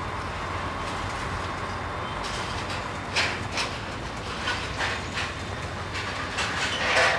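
Inside a container truck's cab while driving: the engine and road noise make a steady drone. From about two seconds in, the cab gives off irregular rattles and knocks.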